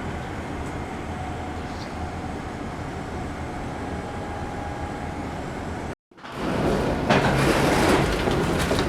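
Steady low rumble of a parked airliner's cabin ventilation while passengers disembark. About six seconds in it cuts off abruptly, and a louder, busier noise follows.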